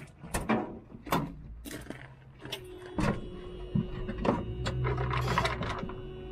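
Knocks and clicks, then about three seconds in the International hook lift truck's diesel engine starts and settles into a steady idle, with a steady tone coming on just before it. The exhaust leak at the flex pipe has just been repaired and the engine should now run quieter.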